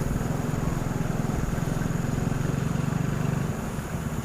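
A large vehicle engine running steadily with a low pulsing rumble.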